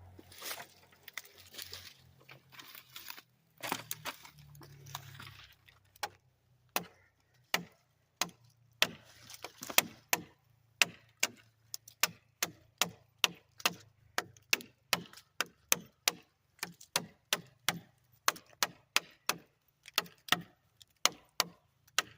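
Maxace Vortex folding pocket knife chopping into a thick oak branch: a long run of sharp, evenly paced strikes, about two and a half a second. The strikes start about six seconds in, after a few seconds of soft rustling.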